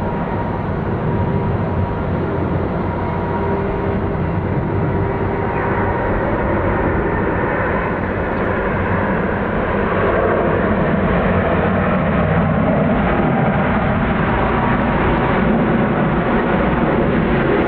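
Widebody jet airliner's engines running loud and steady, swelling a little about ten seconds in.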